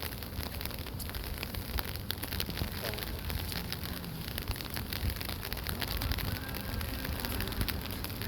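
Steady rain falling, with many sharp drop ticks close to the microphone over a low rumble.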